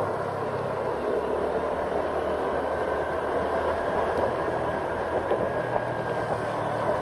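Steady road and wind noise from a vehicle on the move, with a low, even engine hum underneath.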